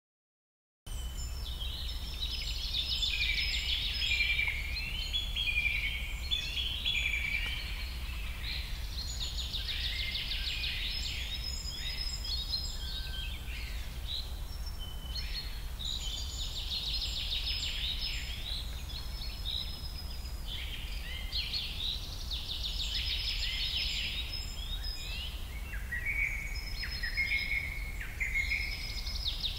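Birds chirping and trilling, with short falling whistles and rapid trills, over a low steady hum. The sound starts abruptly about a second in.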